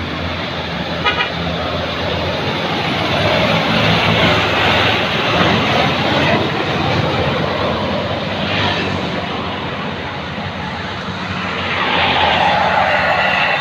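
Heavy truck on the move: engine running under loud road and wind noise, with a brief pulsing horn toot about a second in.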